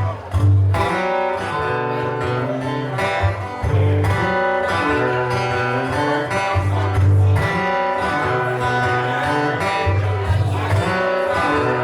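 Live guitar playing the instrumental intro of an original song: plucked notes over steadily repeated low bass notes, before the vocals come in.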